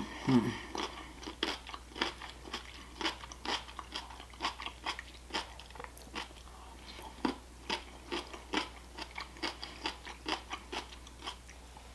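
Raw cucumber being chewed: crisp, wet crunches, about two a second, unevenly spaced. A short hummed 'mm' comes right at the start.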